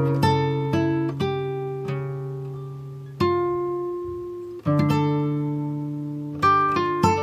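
Background music on guitar: plucked notes and chords, each left to ring and slowly fade, with a fresh chord struck a few times.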